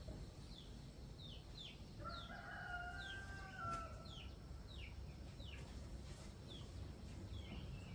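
A rooster crows once, one long call starting about two seconds in, over a steady run of short, falling chirps from small birds.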